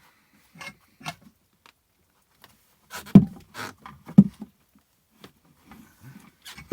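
Two heavy knocks about a second apart, with lighter clacks and knocks around them: the axe being struck with a heavy tool to drive out the stuck old handle.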